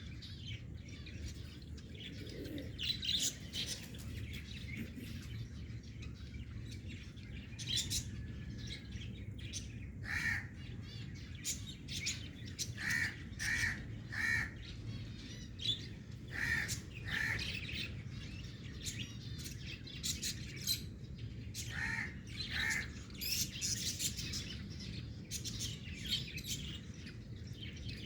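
Several birds chirping, with short high chirps throughout and repeated short calls in quick groups of two or three.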